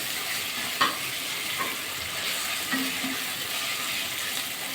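Onion, ginger and garlic frying in oil in a pan, sizzling steadily as they are stirred, with a few knocks of the stirring spoon against the pan, the clearest about a second in.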